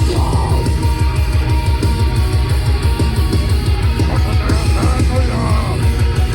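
Live rock band playing a hard, heavy song: electric guitars over fast, steady drums.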